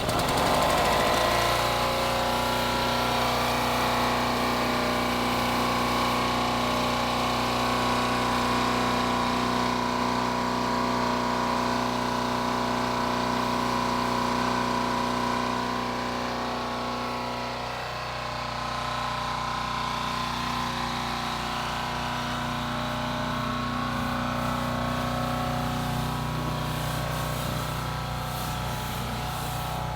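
A motor-driven machine running steadily with an even, pitched hum. It starts right at the outset and its tone shifts slightly about eighteen seconds in.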